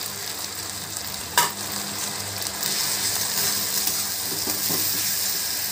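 Onions, tomatoes and ground spices sizzling in hot mustard oil while a metal spoon stirs them around the pan. There is one sharp clink of the spoon against the pan about a second and a half in, and the sizzle grows louder from about halfway through as the spices are worked into the oil.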